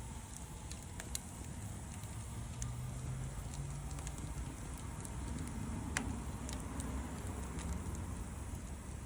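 Wood fire burning over a low steady rumble, with scattered sharp crackles and pops; the sharpest pop comes about six seconds in.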